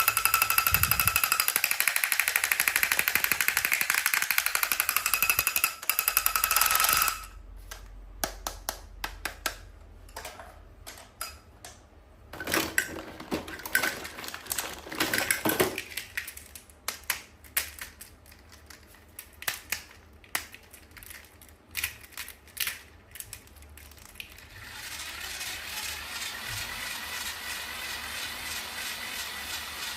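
Toys and packaging being handled: scattered sharp clicks, taps and crinkles, loudest about halfway through. Before that, for the first few seconds, there is a fast rattling buzz with a steady high tone. Near the end a steady hiss takes over.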